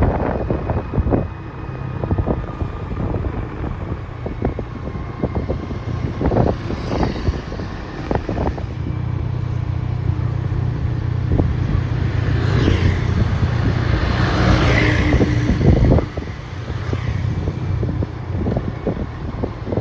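A motor vehicle running on the move with wind on the microphone. Its low engine hum grows steady and loud from about eight seconds in, then drops off suddenly about sixteen seconds in.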